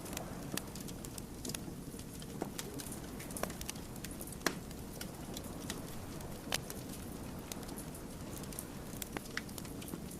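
Wood fire burning with irregular sharp crackles and pops over a steady low rush of flames; the loudest pop comes about four and a half seconds in.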